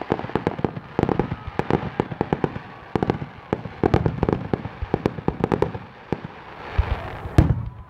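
Fireworks going off in rapid succession: many sharp bangs and crackles close together, with a heavier boom about seven and a half seconds in.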